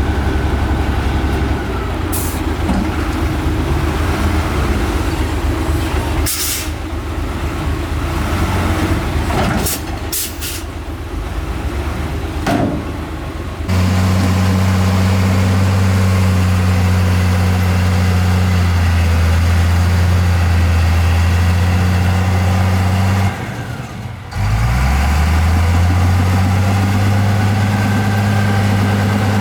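Heavy diesel earthmoving machinery running, with several short hisses in the first half. From about halfway a close engine's steady low hum dominates; it drops out briefly near the end and comes back rising in pitch.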